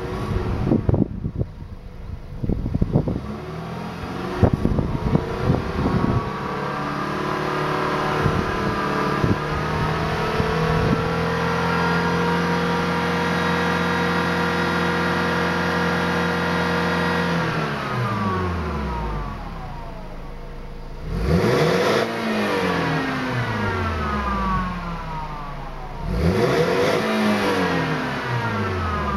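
BMW E90 320i's four-cylinder engine heard through its stock exhaust, revving: it climbs slowly, holds at steady revs for several seconds, drops back to idle, then is blipped twice in quick rises and falls. A few knocks come in the first few seconds.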